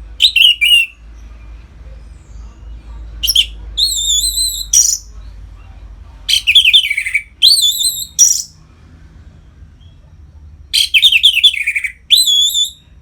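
Orange-headed thrush singing its loud, full song in four phrases a few seconds apart, each a quick run of warbled, wavering whistled notes.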